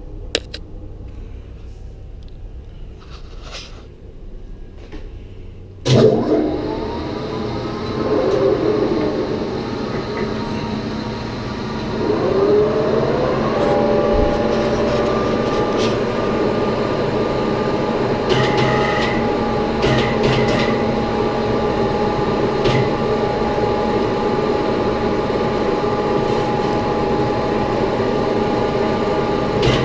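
Metalworking lathe started about six seconds in for boring a compressor housing with a long boring bar. Its motor winds up with a rising whine, winds up again a few seconds later, then runs steadily with a hum.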